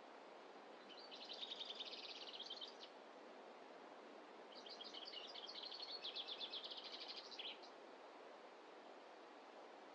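A small songbird sings two rapid trilled phrases, about two and three seconds long, separated by a short pause, over a faint steady background hiss.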